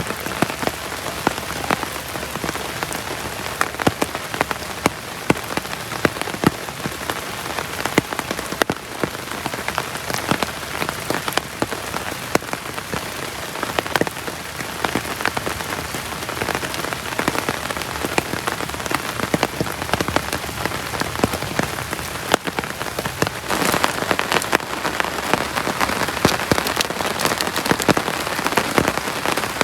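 Heavy rain falling steadily, with many sharp, separate drop impacts close by against the even hiss of the downpour. It grows a little heavier about three-quarters of the way through.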